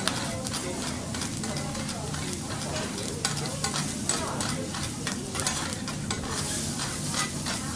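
Food sizzling on a teppanyaki griddle, with quick, irregular metal clicks and scrapes of the chef's spatulas working it on the hot plate.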